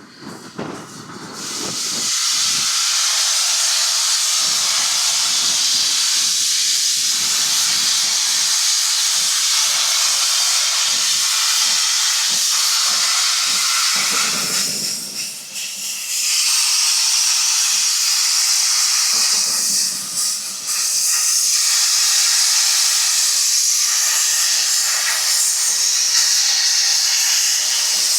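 Steam locomotive letting off steam: a loud, steady hiss that starts about a second and a half in and eases off briefly twice, around the middle and again a little later.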